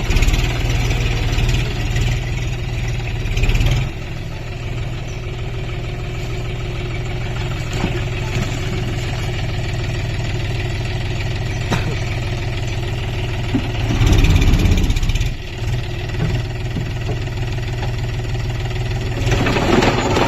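John Deere 5050D tractor's three-cylinder diesel engine running steadily at low revs, louder for the first few seconds and again briefly about fourteen seconds in.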